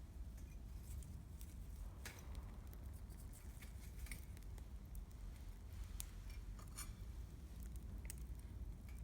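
Wood campfire crackling: scattered sharp snaps and pops, a few a second, over a low steady rumble.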